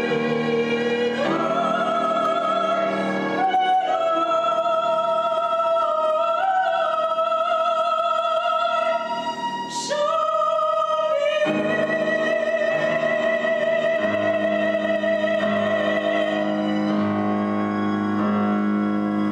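Classical-style solo voice singing long held notes with vibrato, over sustained instrumental accompaniment. The voice breaks off briefly about ten seconds in, then resumes on a long held note.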